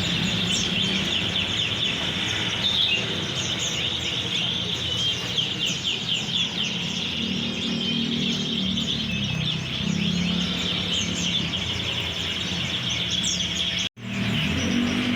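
Many caged songbirds chirping and twittering at once: a dense, overlapping chorus of short high calls over a low background murmur. The sound cuts out for a moment near the end.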